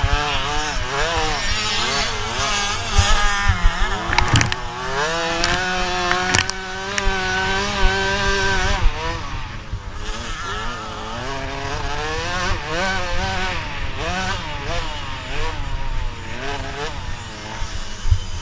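Motocross dirt bike engines revving, their pitch rising and falling again and again as the riders work the throttle, with one engine held at a steady pitch for a few seconds in the middle. Two sharp knocks come about four and six seconds in.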